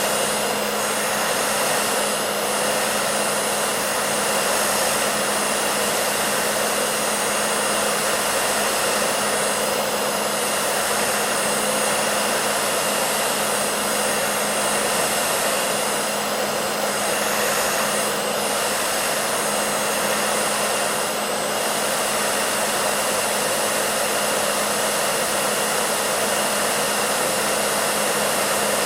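Hair dryer running continuously with a steady rushing blow of air and a constant motor hum, unchanging throughout.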